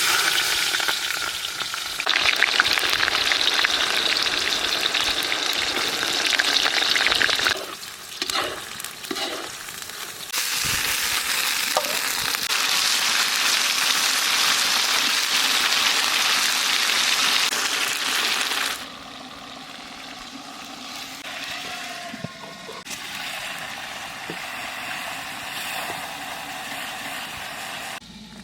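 Chicken frying in hot oil with a loud, steady sizzle. The sizzle drops off abruptly twice, about a quarter of the way in and again about two-thirds through, and is much quieter for the last third.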